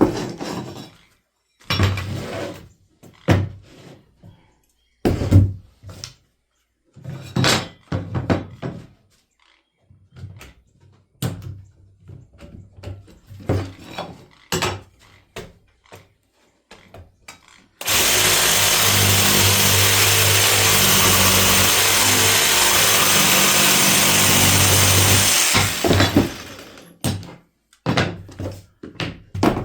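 Wooden knocks and clatters of pieces being handled and set down, then an electric power saw running and cutting the marked wood for about seven and a half seconds before it stops.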